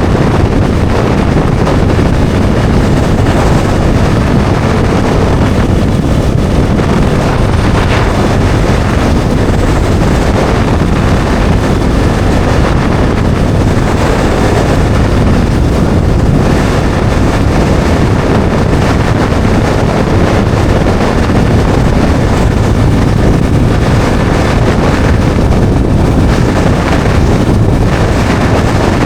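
Heavy wind noise buffeting the microphone over the steady running of a Bajaj Dominar 400's single-cylinder engine, cruising at an even speed with no gear changes or revving.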